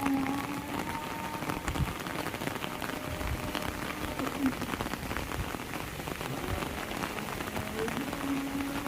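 Heavy rain falling steadily, with a dense patter of individual drops striking surfaces.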